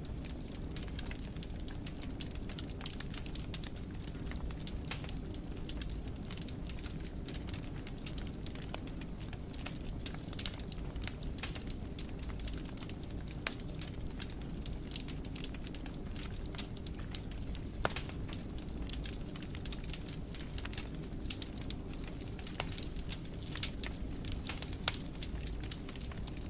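Wood fire in a fireplace crackling, with frequent irregular sharp pops over a steady low rumble of the burning.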